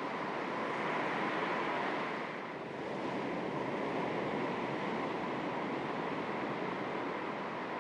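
Small sea waves lapping on the shore, a steady wash of water noise that eases briefly about two and a half seconds in.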